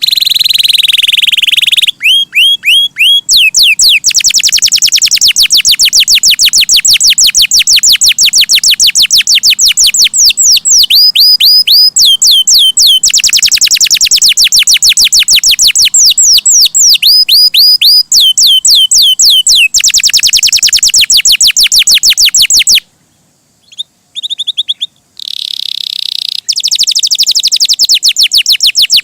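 Domestic canary singing loudly and at length, in fast rolling trills and runs of rapidly repeated sweeping notes. It breaks off briefly about three-quarters of the way through, then starts again.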